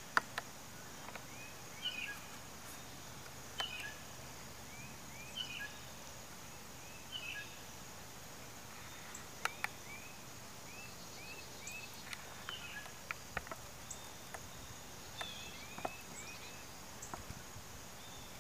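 Outdoor ambience with a bird repeating short chirps in small groups every second or two, over a steady low background noise, with a few sharp clicks.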